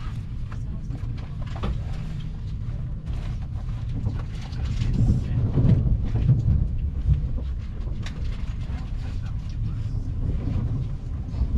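Passenger train running on the track, heard from inside the carriage: a steady low rumble of wheels on rails with scattered clicks and clatter from the track. It grows louder for a couple of seconds around the middle.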